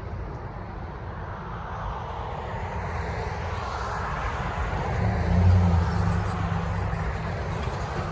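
A vehicle going by with a low rumble and road or wheel noise, swelling to its loudest about five and a half seconds in and then easing off a little.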